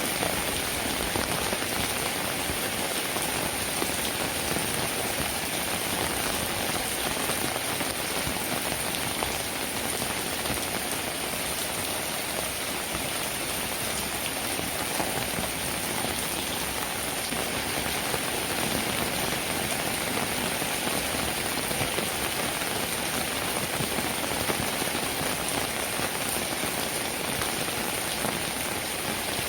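Steady rain falling on a cabin roof, a dense, even patter of raindrops that doesn't let up.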